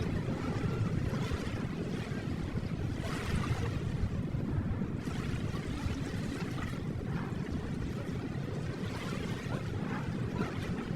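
Ocean waves: a steady low rumble of surf with a wash of spray swelling up every few seconds.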